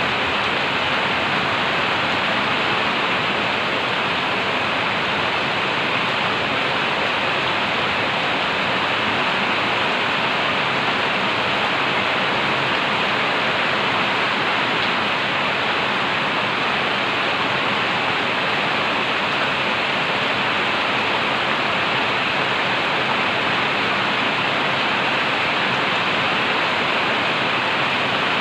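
Heavy rain pouring down, a loud, even hiss that holds steady throughout.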